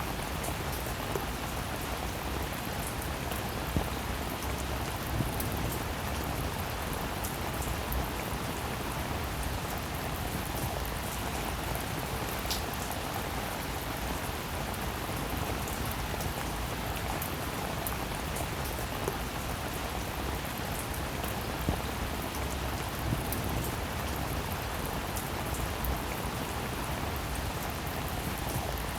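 Steady rain falling, an even hiss with scattered sharper drops ticking close by now and then.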